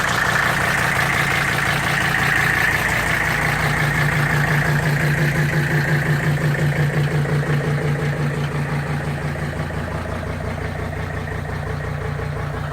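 Five-cylinder Mercedes turbo diesel in a 1952 Dodge truck idling steadily. Its beat grows stronger and pulses for a few seconds in the middle, then settles back to an even idle.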